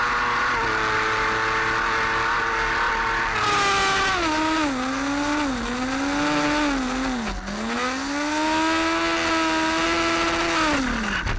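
Racing motorcycle engine at high revs, then braking and downshifting through several gears with short blips between shifts, then accelerating hard back up to a high, held note. The sound cuts off abruptly at the end.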